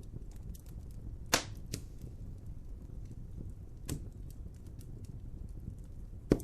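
Wood fire burning with a low steady rumble and small crackles, and sharp pops three times: about a second and a half in, near four seconds, and a loud one near the end.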